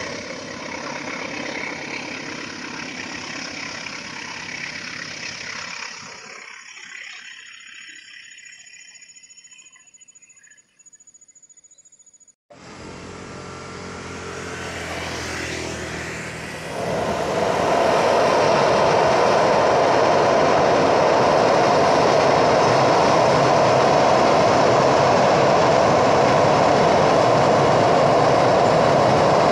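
Diesel-hauled passenger train: a rumble that fades away over the first several seconds, then, after a sudden break, a train crossing a steel truss bridge, the noise building and from about a third of the way in holding loud and steady as the coaches roll over the girder span.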